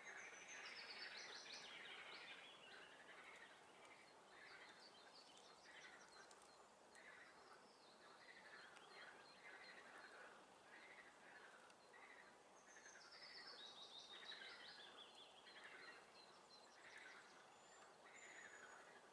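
Faint spring swamp chorus: frogs calling over and over, about once a second, while a songbird twice sings a quick trilled song that falls in pitch, once near the start and again about two-thirds of the way through.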